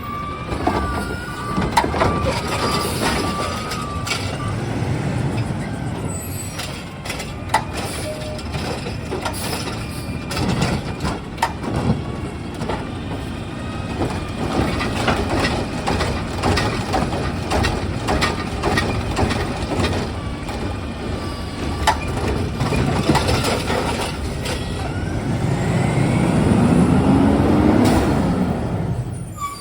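Curbside recycling truck at work: its reversing beeper sounds for the first few seconds, over the rumble of the diesel engine, then comes a long run of clattering and knocking. Near the end the engine revs up and rises in pitch.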